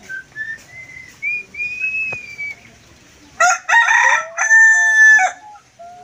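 A bird crows like a rooster: one loud cock-a-doodle-doo lasting about two seconds, starting about three and a half seconds in, harsh at first and ending on a long held note. It is preceded by faint, thin gliding whistles.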